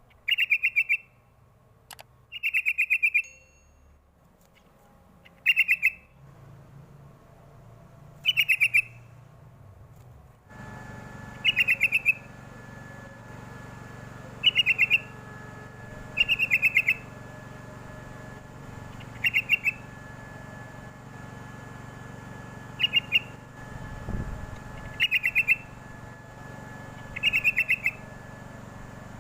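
Yellow-vented bulbul (trucuk) singing short, bubbly chattering phrases, repeated every two to three seconds. A steady low hum comes in underneath about ten seconds in.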